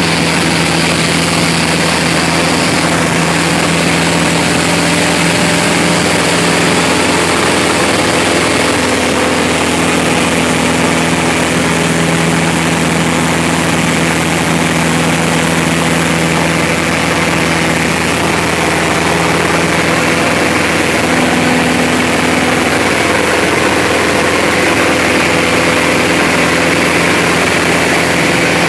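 Cessna 172's 180 hp four-cylinder piston engine and propeller running at steady power in flight: a constant drone over a strong rush of air.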